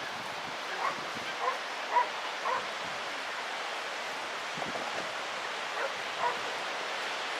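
A dog barking in short, separate barks, about half a dozen spread over several seconds, above a steady background hiss.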